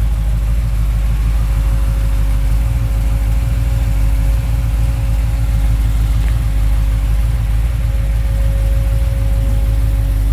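A 440 big-block V8 idling steadily on an engine run stand, its speed holding even throughout.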